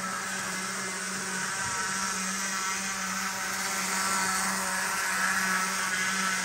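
Athearn model train locomotive running under power, its motor and gear drive giving a steady whirring grind that grows louder about four seconds in. The grinding shows up on curves when running clockwise.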